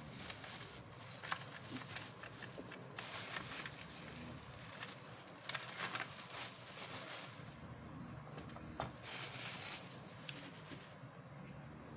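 Product packaging being handled and opened: irregular rustling with scattered sharp clicks and light knocks as the LED flood light is unboxed.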